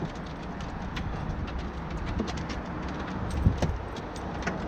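A small dog's claws clicking and tapping on the boat as it moves about, many light irregular ticks over a steady low rumble.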